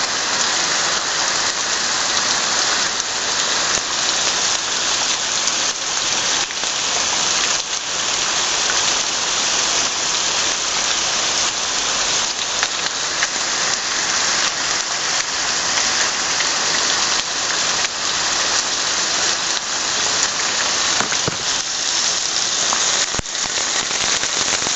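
Tropical storm: heavy wind-driven rain, a steady loud hiss that swells slightly now and then.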